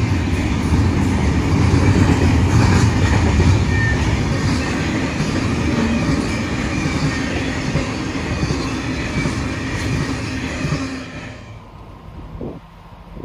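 Freight train cars passing at speed: a loud, steady rumble and rattle of wheels on rail, which drops away abruptly about eleven seconds in.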